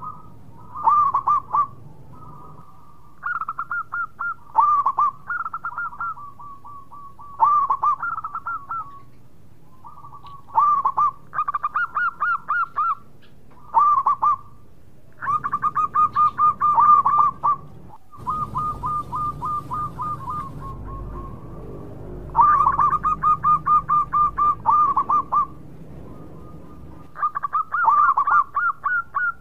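Zebra dove (perkutut) cooing: repeated phrases of quick pulsed coos, each one to three seconds long, with short pauses between them.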